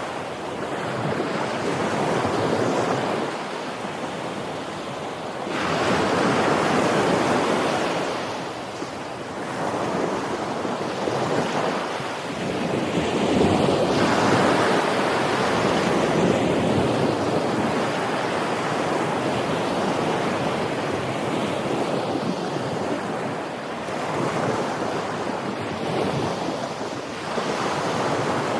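Ocean waves breaking and washing onto the shore in a steady, continuous surf that swells and ebbs every few seconds, with some wind on the microphone.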